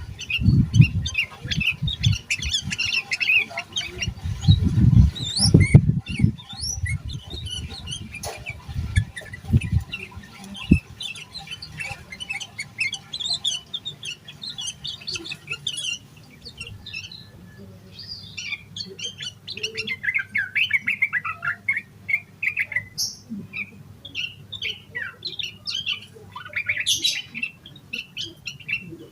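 Sooty-headed bulbul (trucukan) singing a rapid, busy stream of chirps and calls. Heavy low thuds mix in during the first ten seconds or so.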